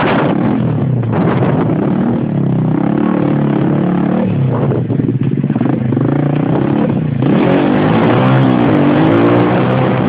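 125cc Xmoto XB-32 pit bike engine revving up and down as the bike is ridden, its pitch repeatedly rising and falling with the throttle, and getting louder about seven seconds in.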